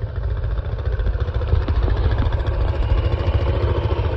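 ATV engine running steadily with a dense low rumble.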